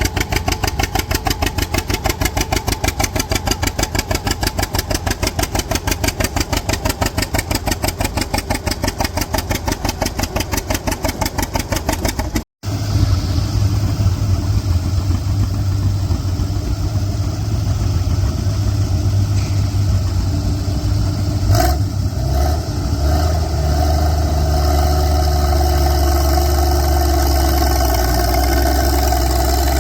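Antique tractor engine running with a rapid, even chug of separate firing pulses. After a cut about twelve seconds in, an engine runs steadier with a deep hum, and there is one sharp knock a few seconds later.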